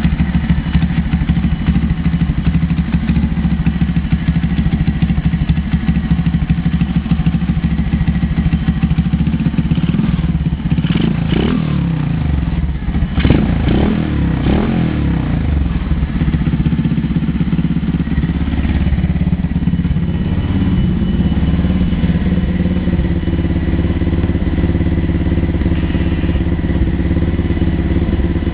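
125cc Lifan single-cylinder four-stroke pit bike engine idling steadily, with a few quick throttle blips that raise and drop its pitch about ten to fifteen seconds in.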